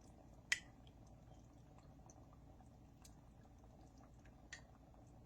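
Near silence: room tone with a low hum, broken by one sharp click about half a second in and a fainter click near the end.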